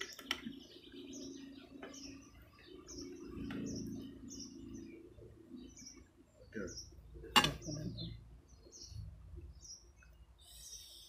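A small bird chirping over and over, short high chirps about two a second, with a single sharp click about seven seconds in.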